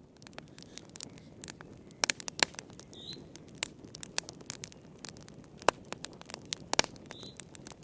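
Wood fire in a fireplace crackling, with irregular sharp pops of varying loudness over a low, steady rushing.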